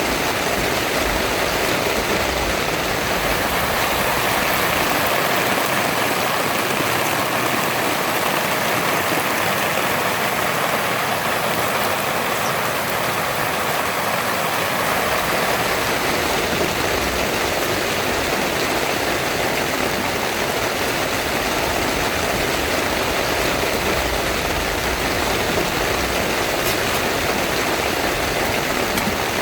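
Heavy rain pouring steadily onto a tent. A low rumble underneath drops away for several seconds partway through, then returns.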